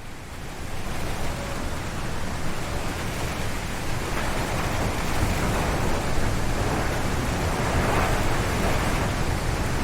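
Strong wind gusting through forest trees: a dense steady rush with a deep rumble, swelling and easing gently, fading in over the first second.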